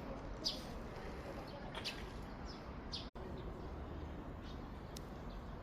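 Small birds chirping: a few short, high chirps in the first half, fainter ones later, over a steady low background noise. The sound cuts out for an instant about three seconds in.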